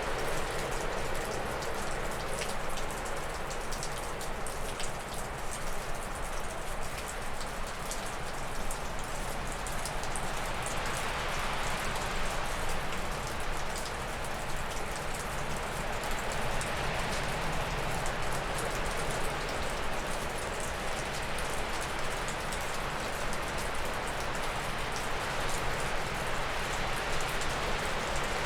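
Gusty wind rushing through spruce and birch trees, building to a stronger gust through the middle and easing again. Water from melting snow drips off a roof as many small ticks, thickest early on.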